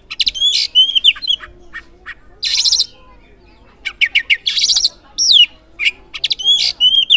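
Oriental magpie-robin singing: bursts of rapid, high chattering notes and short whistles in quick phrases, with a pause of about a second near the middle.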